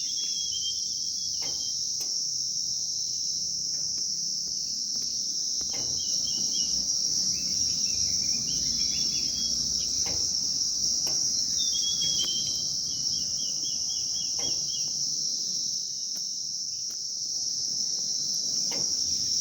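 A steady, high-pitched insect drone, like crickets, runs throughout. Over it, small birds give short runs of quick, high chirps several times.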